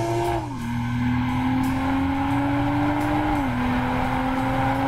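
BMW M240i's turbocharged 3.0-litre inline-six accelerating hard. Its pitch climbs steadily in each gear and drops sharply at two upshifts, about half a second in and about three and a half seconds in.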